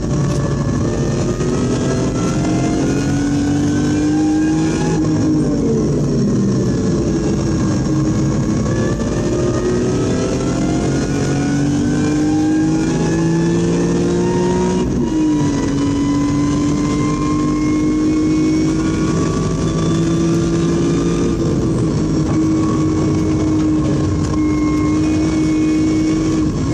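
BMW E46 M3's S54 straight-six pulling hard under acceleration, heard from inside the cabin. The revs climb, drop sharply at an upshift about five seconds in, climb again to a second upshift about fifteen seconds in, then hold nearly steady before easing off near the end.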